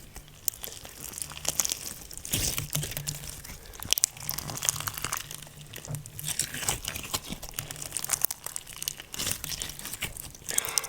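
Slime being squished and stretched by hand, giving a steady run of irregular crackling and popping clicks.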